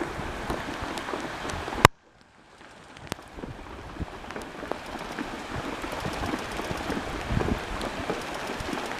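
River water rushing and splashing as ponies wade across, with wind on the microphone. A sharp click about two seconds in is followed by a brief dropout before the water sound fades back up.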